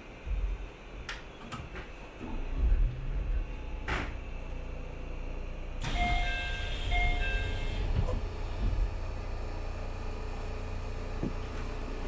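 Electric commuter train heard from the driver's cab: a low rumble with a few sharp clicks. About six seconds in, a brighter hiss rises and an electronic chime beeps twice, followed by a steady hum.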